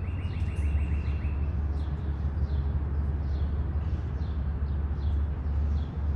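Small wild birds chirping, with many short falling chirps repeated throughout and a rapid trill over the first second and a half, over a steady low rumble.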